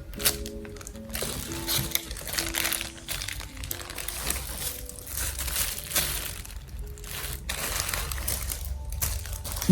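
Packaging being handled, crinkling and rustling in repeated swells with occasional sharp clicks, over soft background music.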